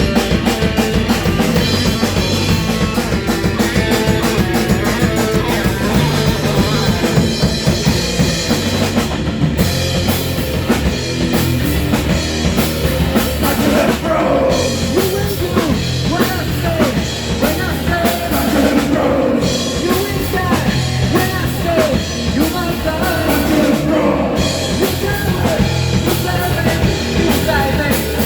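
Rock music: a band with a steady pounding drum kit and electric guitar, joined about halfway through by a wavering, bending lead line.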